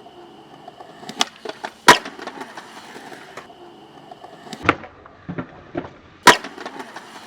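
Skateboard wooden deck cracking and slapping on pavement during trick attempts, with wheels rolling between hits. There are two loud sharp cracks, about two seconds in and near the end, and smaller knocks around them.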